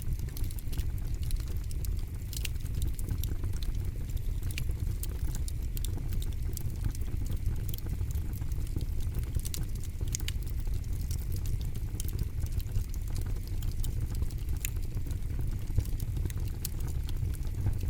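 Campfire burning, with irregular sharp crackles and pops from the burning wood over a low steady rumble.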